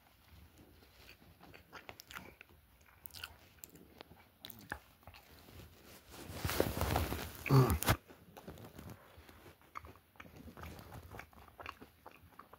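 A person chewing and biting pizza close to a phone's microphone: small scattered clicks and crunches, with a louder stretch of noise from about six to eight seconds in.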